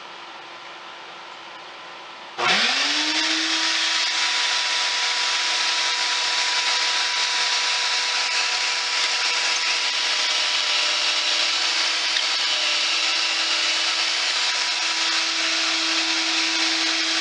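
A vacuum hooked to a pocket-hole jig switches on about two seconds in. It spins up quickly to a steady whine over loud rushing air, running while the pocket hole is drilled.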